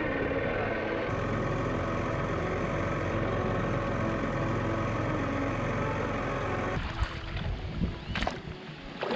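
Small outboard motor on an inflatable dinghy running steadily under way. About seven seconds in the motor sound cuts off abruptly, leaving a few knocks and clatters.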